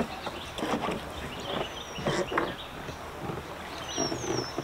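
Knocks and rubbing of a carbon-Kevlar Swift Dragonfly solo canoe being lifted off its wooden stands and swung up overhead onto a paddler's shoulders. A high falling whistle sounds twice in the background.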